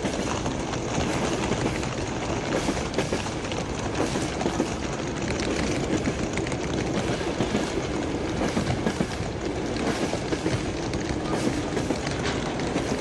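Passenger train moving on the rails: a steady rumble with faint clicks from the wheels.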